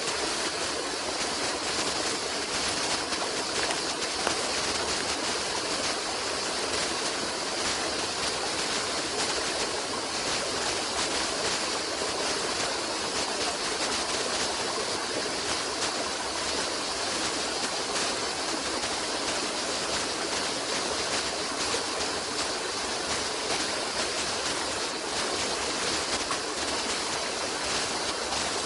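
A stream of water flowing steadily, an even hiss of running water with no breaks or separate events.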